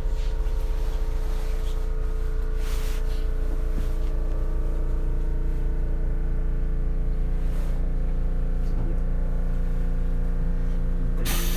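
Steady electrical hum of the Ichibata 7000-series railcar's onboard equipment while it stands at a station with its doors open, with a few faint clicks. Near the end a sudden loud noise cuts in.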